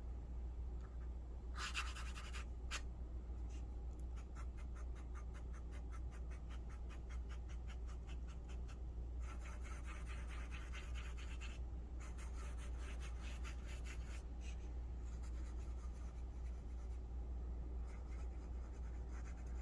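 Fountain pen nib scratching across Tomoe River paper as words are written: many quick, light strokes in runs with brief pauses. A steady low hum sits underneath.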